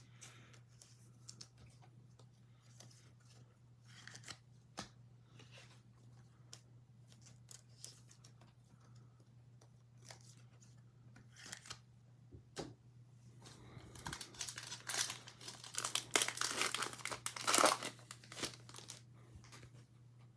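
A trading-card pack wrapper being torn open and crinkled, in a dense run of crackling that starts about two-thirds of the way in and lasts several seconds. Before it there are only scattered soft clicks and rustles of cards being handled, over a steady low electrical hum.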